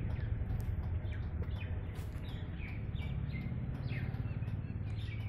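Birds chirping in short, repeated, falling calls over a steady low rumble.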